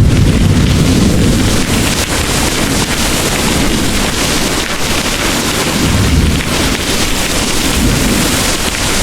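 Heavy rain pouring steadily, with low rolling thunder underneath. The rumble is strongest at the start and swells again about six seconds in.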